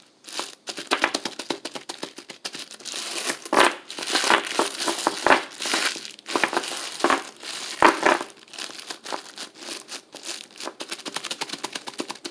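A small plastic pack, which the title calls a steel-ball pack, being squeezed and kneaded by hand: dense, irregular crinkling and crackling, with sharp clicks in quick clusters.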